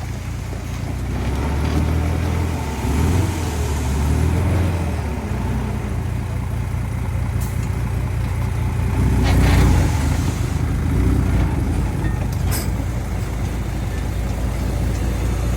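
Heavy diesel engines of earthmoving machines working, the revs rising and falling, with a few sharp metallic knocks partway through.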